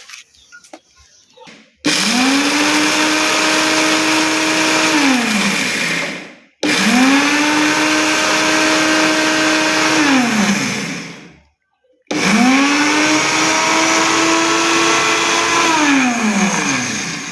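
Electric kitchen grinder grinding dried papaya seeds into powder, run in three bursts of about four to five seconds each: each time the motor spins up with a rising whine, holds a steady high-speed whir, then winds down with a falling pitch before a short pause.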